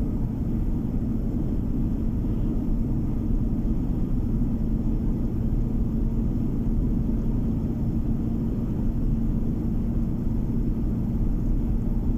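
Car cabin noise while driving: a steady low rumble of tyres and engine with a constant hum.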